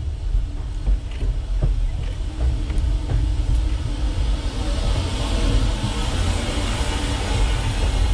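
Steady low rumble of a train in an open-air railroad coach, with a few light clicks in the first half. About halfway through, a hiss swells as a steam locomotive and its coaches come past on the adjacent track.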